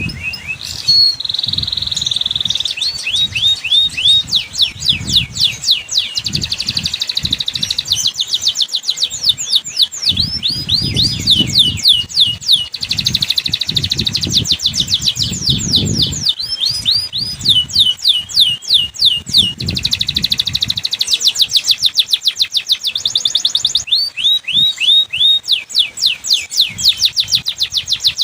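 Domestic canary singing a long, continuous song of fast trills, each trill built from rapidly repeated downward-sliding notes, with the phrase changing every few seconds. A low, intermittent rumble runs underneath.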